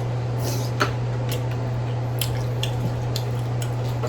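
Wet, messy eating of sauce-covered boiled crawfish: squishing and sharp clicks of shells being cracked and peeled, a few times a second at irregular intervals, over a steady low hum.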